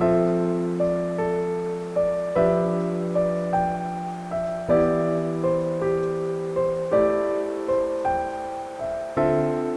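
Background piano music: a slow, gentle melody of single struck notes over chords that change every couple of seconds.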